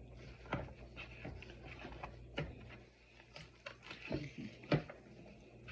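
Rotisserie chicken being pulled apart by hand: irregular soft wet tearing and small cracks and knocks, about one a second.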